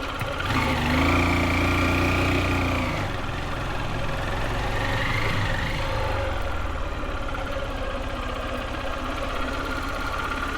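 Motorbike engine running as it is ridden; its pitch rises about half a second in, holds for a couple of seconds and drops back, then rises briefly again about five seconds in.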